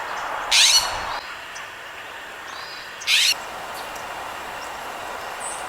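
A bird giving two short, loud, high calls about two and a half seconds apart, each a quick cluster of falling notes, with faint chirps between them.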